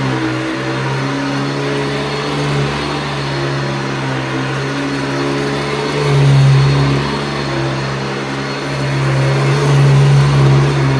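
Hoover Decade 80 upright vacuum cleaner, fitted with an 11-bladed replacement motor fan, running steadily. Its pitch shifts slightly and it grows louder about six seconds in and again near the end.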